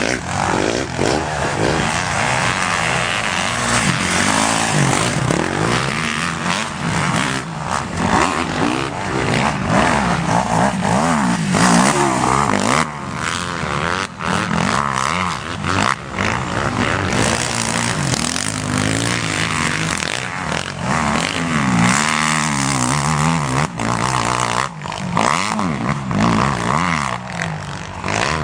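Motocross motorcycle engines revving hard, the pitch rising and falling over and over as the throttle opens and closes and the gears change.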